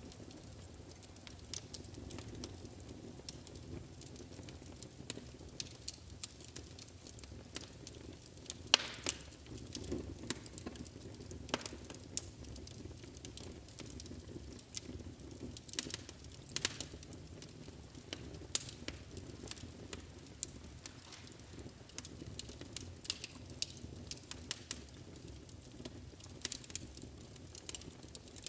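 Wood fire burning in a fireplace with a low steady rumble, crackling and popping irregularly. Sharp snaps stand out now and then, the loudest about nine seconds in.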